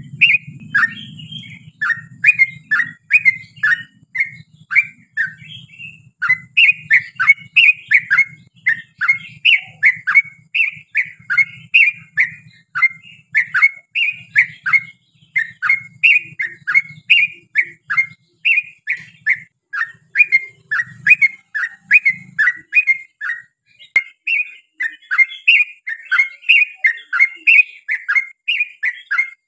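Yellow-vented bulbul (trucukan) singing a long, unbroken run of quick sweeping notes, about two to three a second.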